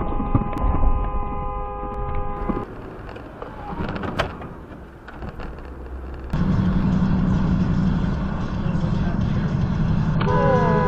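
Dashcam traffic audio across several clips: a car horn held for about two and a half seconds, a sharp knock about four seconds in, then steady engine and road rumble, with a horn sounding again near the end.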